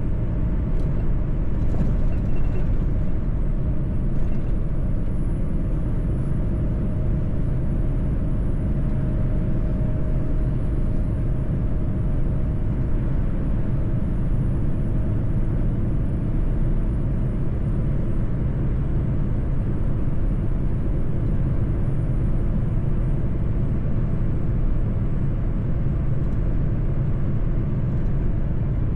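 Mercedes-Benz truck driving on the road: a steady engine and road rumble, with a few short clicks in the first few seconds and a faint high whine that drifts slightly in pitch.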